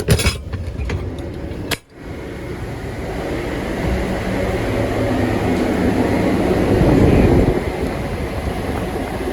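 Steady mechanical running noise from a Hyundai Porter 2 freezer truck, its engine running with the refrigeration unit's fan going. A few sharp clicks come at the start, the sound cuts out briefly just before two seconds in, then the running noise returns and swells for a while before settling.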